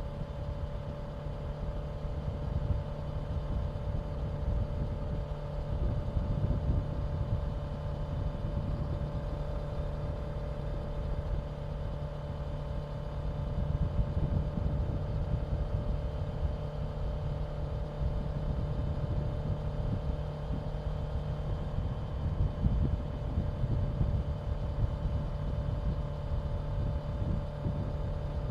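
Honda CBR650F's inline-four engine running at a steady cruise, its note holding an even pitch, over low rushing wind noise.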